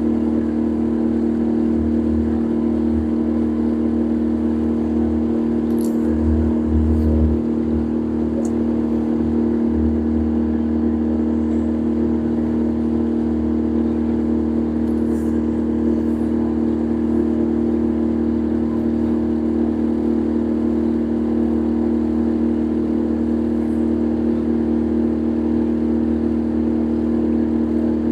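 A boat's engine running steadily at a constant pitch, heard from on board. A low rumble swells about six to seven seconds in.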